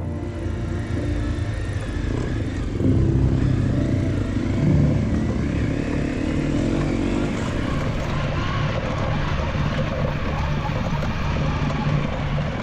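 Honda CRF250L single-cylinder dual-sport motorcycle engine running while riding off-road, its pitch rising and falling with the throttle. It gets louder from about three seconds in.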